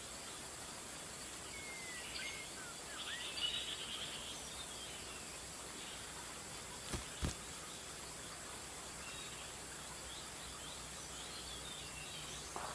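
Forest ambience: a steady high insect hiss with a few short bird whistles and chirps, most in the first four seconds. Two sharp knocks about a third of a second apart come a little after halfway.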